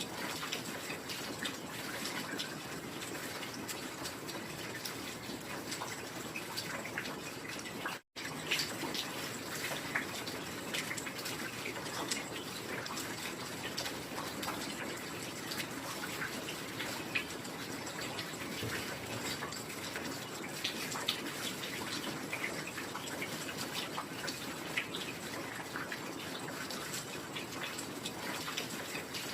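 Steady heavy rain, a dense even hiss with many individual drops striking close by. It cuts out for a split second about eight seconds in.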